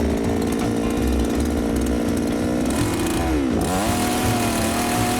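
Two-stroke chainsaw running at a steady high speed. About three and a half seconds in, its pitch drops sharply and climbs back, as when the chain bites into a log to notch a marking line.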